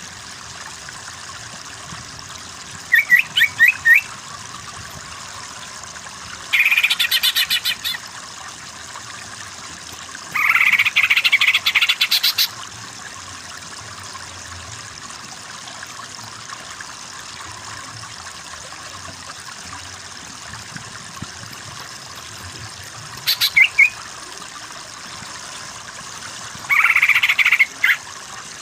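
Greater green leafbird (cucak ijo) calling in five short bursts of fast, chattering repeated notes, over a steady hiss of running water.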